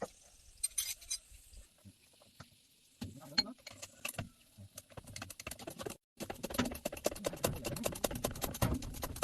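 Metallic clicking and clinking of hand tools working on engine parts: scattered clicks at first, then a rapid run of clicks for the last few seconds.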